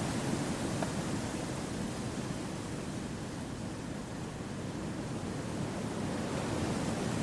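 Wind blowing through forest trees: a steady, deep rushing noise that eases slightly about halfway through and then swells again.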